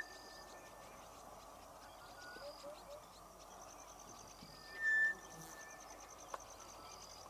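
Wild birds calling: a clear whistled note of about half a second, the loudest sound, about five seconds in, over a faint chorus of high chirps and trills.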